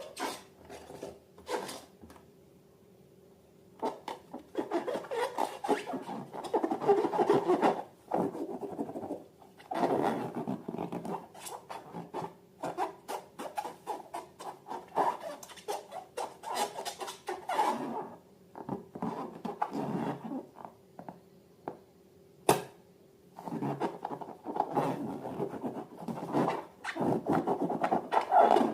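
Hands working slime and rubber balloons, in irregular bursts of handling noise with short pauses between, and one sharp click about three quarters of the way through.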